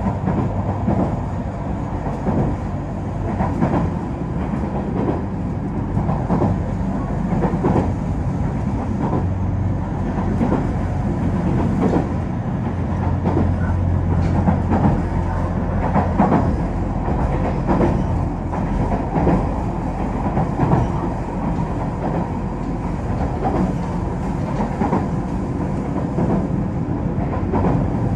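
A JR Kyushu KiHa 47-series diesel railcar running at speed, heard from inside the carriage: a steady low rumble and engine hum, with the wheels clicking over rail joints. The hum grows stronger about halfway through.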